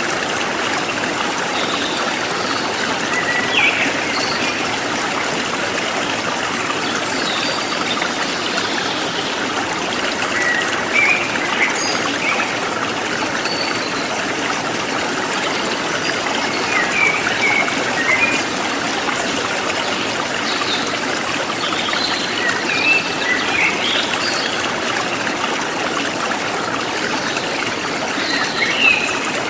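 Forest stream flowing steadily, with short bird chirps scattered over it every few seconds.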